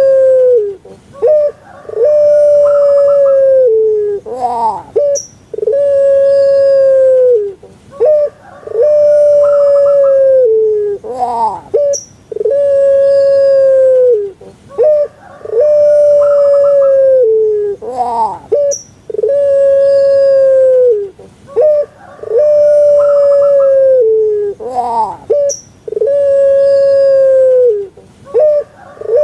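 A Puter Pelung dove (a domestic Barbary dove, Streptopelia risoria) giving its long coo over and over. Each call is a few short notes, then a quick rising note, then one long held note that falls off at the end, repeating about every three and a half seconds.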